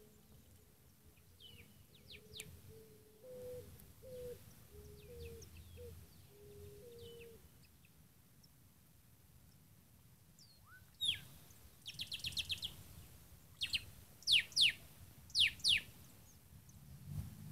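Wild birds chirping. There are scattered faint chirps and a low, stepping run of notes in the first half, then louder, sharp falling chirps and a quick trill in the second half.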